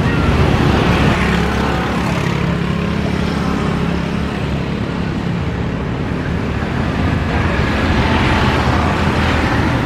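Loud, steady engine noise with a low hum, swelling slightly about a second in and again near the end.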